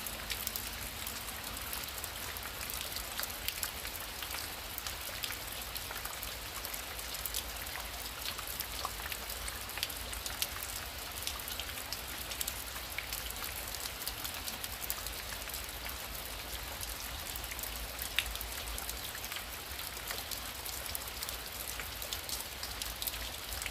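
Heavy rain falling steadily: a dense, even hiss with many sharp ticks of individual drops and a low rumble underneath.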